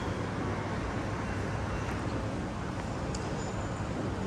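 Steady ambient rumble and hiss of an indoor shopping centre, with a faint click about three seconds in.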